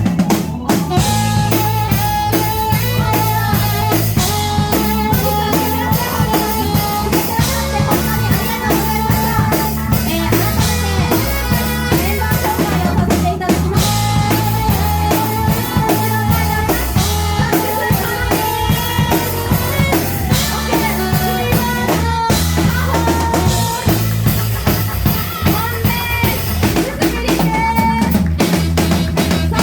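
Live jazz-funk band playing: drum kit keeping a busy beat with snare and bass drum, a low bass line moving in held notes, and a lead melody line over the top.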